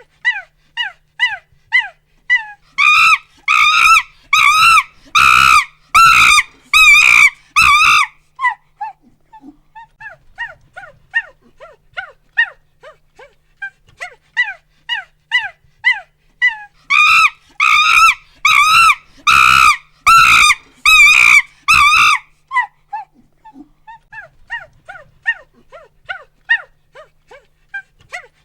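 Monkey hooting and screaming: a run of short hoots, each falling in pitch, builds twice into about five seconds of loud, rapid screams, then settles back to hoots.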